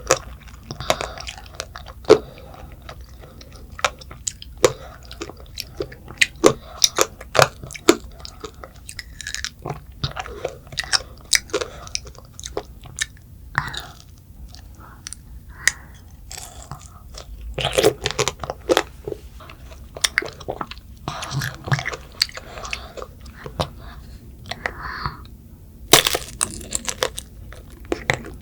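Strawberry tanghulu being bitten and chewed: the hard candy shell cracks in many sharp, irregular crunches, with chewing between them.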